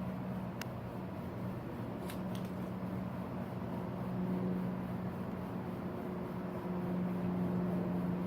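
A steady low mechanical hum, with a few faint clicks in the first few seconds.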